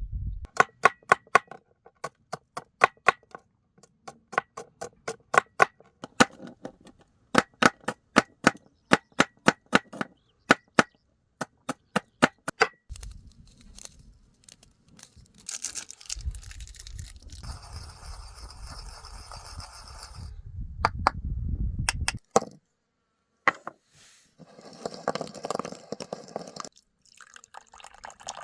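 A rapid run of sharp knocks, several a second, lasting about twelve seconds. After it come stretches of rustling noise with a low rumble.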